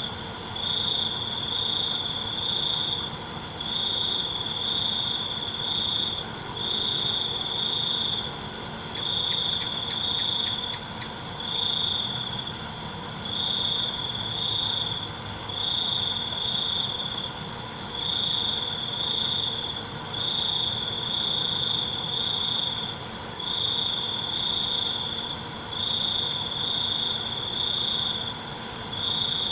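Night crickets chirping in repeated high trills, each about a second long with short breaks between them. A fainter pulsing insect call sits just above the trills, and other insects give a steady, higher-pitched buzz behind them.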